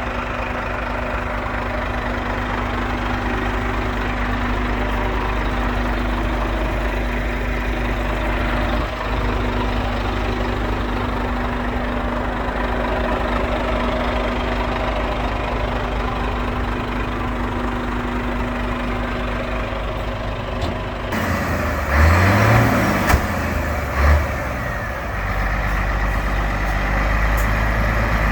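Scania 124L 400 truck's diesel engine idling steadily. About three-quarters of the way through the sound changes, with a few louder low bursts over a couple of seconds, then the steady idle resumes.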